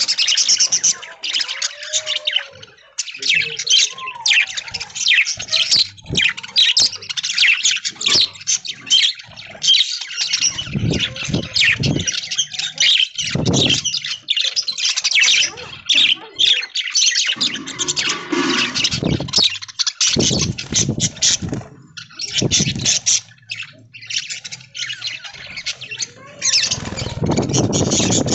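A flock of budgerigars chattering and squawking without a break, many overlapping chirps and warbles. A few louder low noises break in, the longest near the end.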